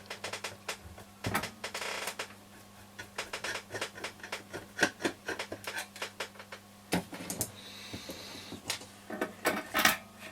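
Irregular small clicks and knocks of a Phillips screwdriver and plastic radio case parts being handled while a transistor radio is taken apart, with a couple of short scraping rustles.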